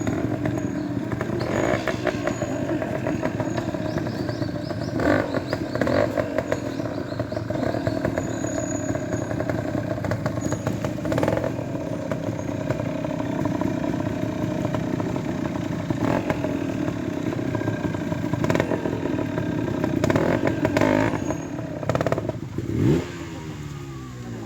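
Trials motorcycle engine running at low revs with repeated short throttle blips, and clattering as the bike works over obstacles. Near the end a quick rev rises and the engine note then falls away.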